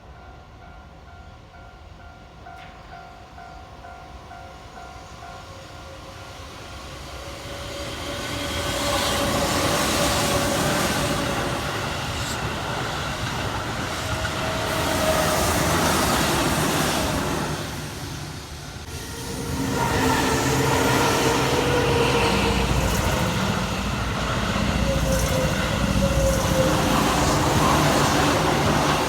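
Keihan Electric Railway trains running past close by, with wheels and motors on the track. The sound builds from about a quarter of the way in, drops briefly just after halfway, then comes back loud to the end.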